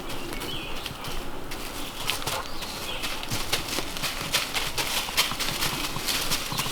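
Footsteps on a rocky trail: an irregular run of sharp clicks and taps.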